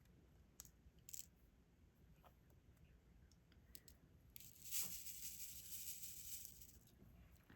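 Faint small clicks of a diamond painting pen and resin drills, then about four seconds in a soft rattling hiss for a couple of seconds as the drills are shaken in their plastic tray.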